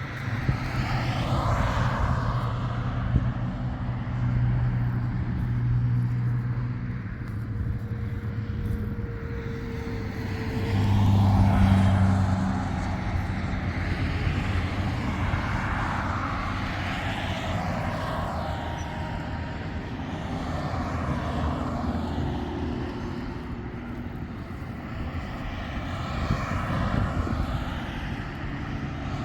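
A motor engine running, its low note shifting up and down, with a hiss that swells and fades every few seconds.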